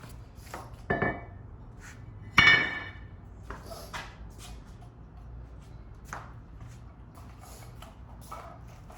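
Metal brake rotor being handled: two clanks about a second in and near two and a half seconds, the second one ringing briefly, then small knocks and clinks of metal parts being moved.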